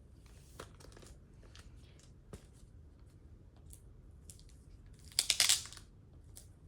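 Plastic comic book sleeve crinkling and rustling as a comic is handled and slid into it: scattered small rustles and clicks, then a louder burst of crinkling about five seconds in.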